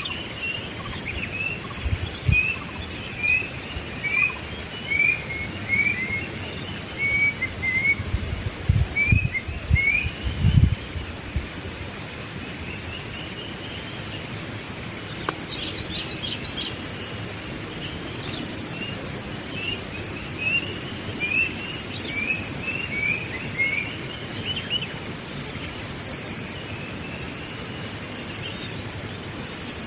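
Wild songbird calling in bouts of short, quick chirping notes over a steady high-pitched insect drone. Several low thumps come in the first third, the loudest things in the stretch.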